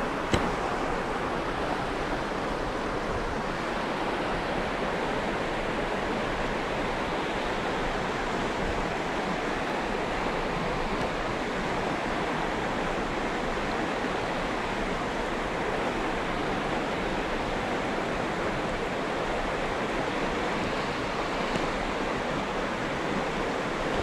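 Steady rushing of a small river's water flowing over riffles close by, with a single short click just after the start.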